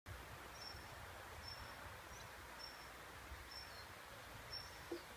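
Quiet outdoor ambience: a small bird calls with short high whistled notes repeated about every second, over a faint low wind rumble on the microphone. A soft knock sounds near the end.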